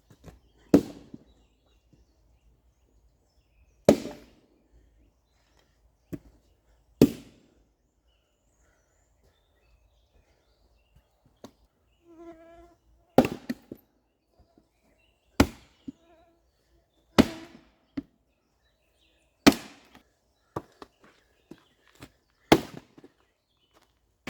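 Firewood being worked by hand: a series of sharp wooden knocks, a loud one every two to three seconds with smaller knocks in between.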